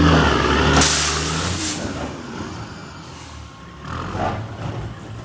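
A motor vehicle's engine running, with a loud hiss about a second in, then quieter noise and a short swell near the end.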